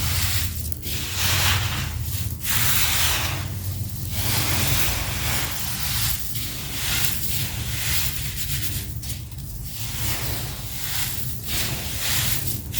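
Sand-cement clumps crumbling and grinding: a gritty rasping that comes in repeated swells, one every second or two.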